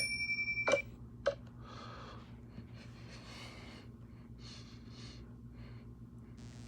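A bell rings with a fast trill and steady high tones, then stops within the first second. It is followed by a few faint breathy gasps.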